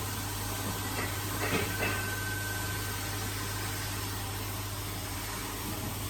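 Steady low machine hum with a constant background hiss, and a couple of light knocks about a second and a half in.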